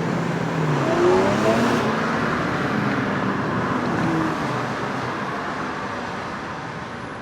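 A car engine revs up with a rising pitch, then the car accelerates away, its sound fading steadily over the last few seconds.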